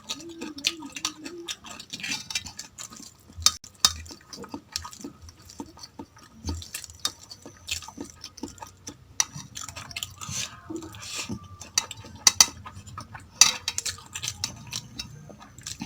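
Utensil and plate sounds while eating a rice dish: many short clicks, clinks and scrapes against a plate, a few sharper ones standing out.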